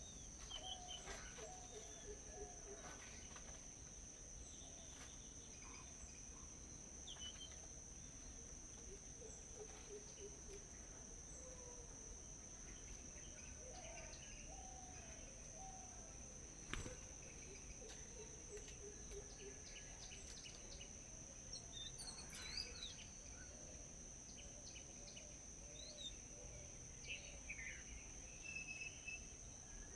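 Birds chirping on and off over a steady high-pitched insect drone, like crickets. One sharp click comes about seventeen seconds in.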